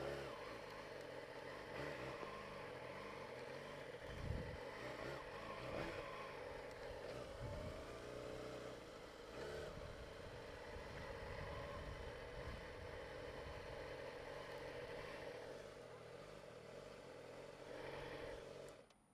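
2007 Yamaha YZF-R6's inline-four engine running as the bike weaves slowly through cones and stops, then switched off near the end, the sound cutting out abruptly.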